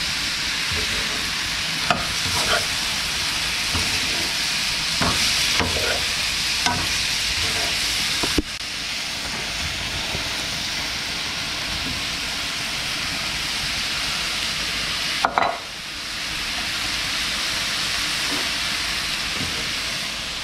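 Hot oil and chopped garlic-and-pepper seasoning sizzling steadily in a frying pan as deep-fried shrimp are tipped in from a bowl. A handful of short clinks and knocks against the pan, two sharper ones about eight and fifteen seconds in.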